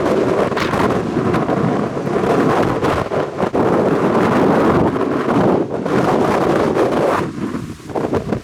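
Strong wind buffeting the microphone, a loud continuous rushing rumble that eases off about seven seconds in.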